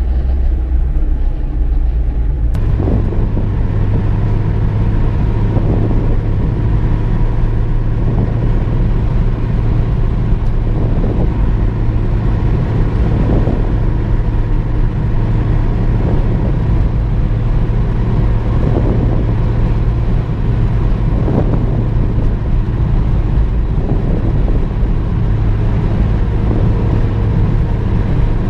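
Car driving, a steady low engine and road rumble that shifts abruptly in character about two and a half seconds in, then runs on evenly with faint brief swells every couple of seconds.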